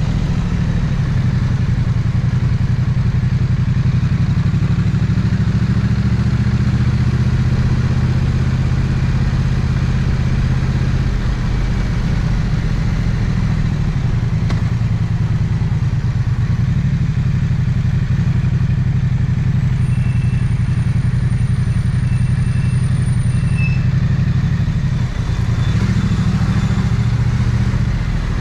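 Triumph 900cc parallel-twin motorcycle engine running steadily at low revs in slow traffic, its pitch barely changing, with a brief dip about 25 seconds in.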